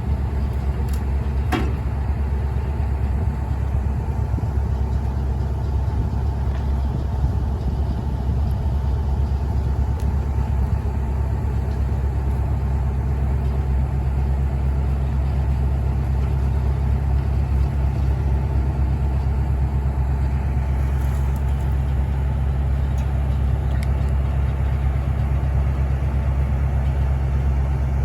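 Large engine idling steadily with a low rumble, a few faint clicks on top.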